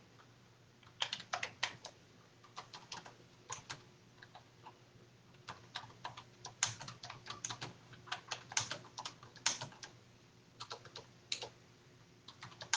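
Typing on a computer keyboard: irregular runs of key clicks starting about a second in, with short pauses between runs.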